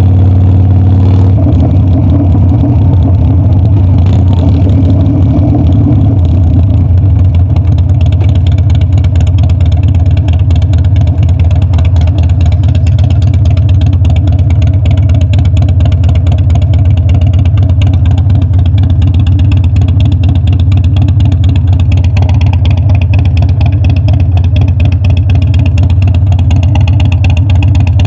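Harley-Davidson Dyna's V-twin engine running loud and steady under riding. Its even note turns rougher about a second in and stays that way.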